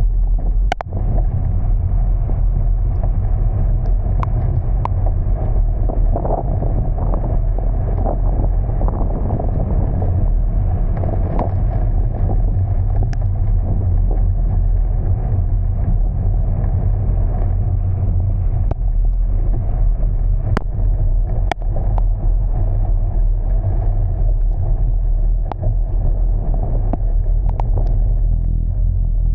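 Steady low rumble of a car driving, with a few sharp clicks scattered through it.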